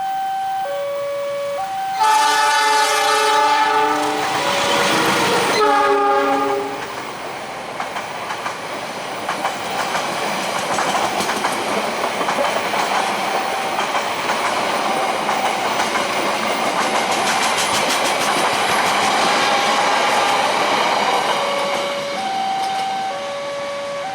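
A railway level-crossing alarm sounds its alternating two-note tone. Then a train horn blasts a chord for about four seconds, and the train passes with its wheels clattering over the rail joints. The alarm's two notes are heard again near the end.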